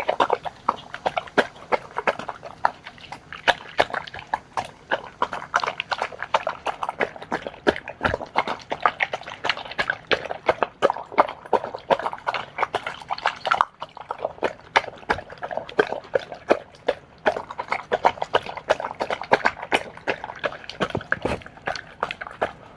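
A dog eating a bowl of wet homemade food: rapid, irregular wet chewing and smacking, several clicks a second.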